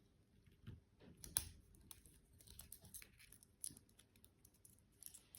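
Near silence with faint, scattered clicks and taps of small parts of a model locomotive chassis being handled and fitted; the loudest click comes about a second and a half in.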